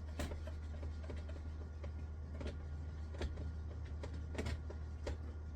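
Someone writing by hand: a series of short scratching strokes spaced irregularly, roughly one or two a second, over a steady low electrical hum.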